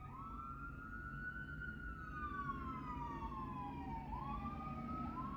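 Emergency vehicle siren wailing, two overlapping tones sweeping slowly up and down in pitch: a quick rise near the start, a long slow fall, then another quick rise about four seconds in.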